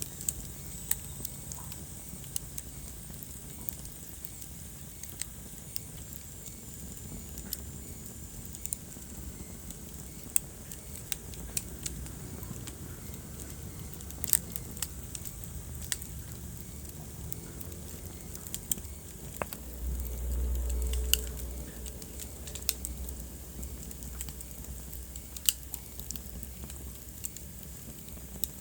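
Wood fire burning in a fireplace: irregular sharp crackles and pops over a steady low rumble of flame, with a brief louder low rush about two-thirds of the way through.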